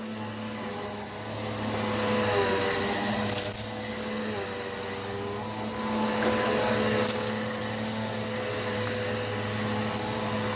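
Eureka PowerSpeed vacuum cleaner running with a steady motor hum and hiss as it picks up rock salt and lentils. Short bursts of brighter hiss come about three and a half and seven seconds in.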